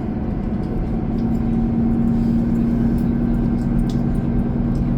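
Transit bus running, heard from inside the passenger cabin: a steady low rumble with a droning hum that grows stronger about a second in, and a few faint rattles.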